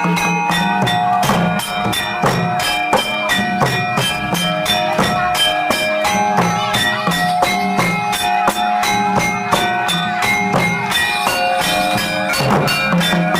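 Live gamelan music accompanying a jathilan (kuda kepang) horse dance: ringing metallophone tones over drums playing a quick, steady beat.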